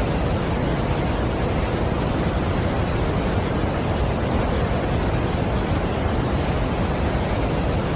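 Steady rushing of a large waterfall: a dense, even noise that is heaviest in the low end, with no breaks or separate sounds.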